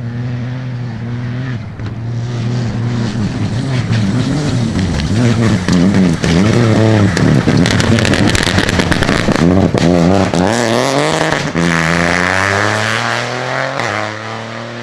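A rally car on a gravel stage running hard past, its engine revs rising and falling quickly with gear changes and throttle, over a hiss of tyres on loose gravel. It is loudest in the middle and then eases off.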